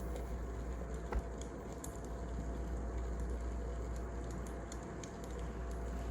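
Wood fire crackling: a steady hiss with scattered small irregular pops and one sharper crack about a second in.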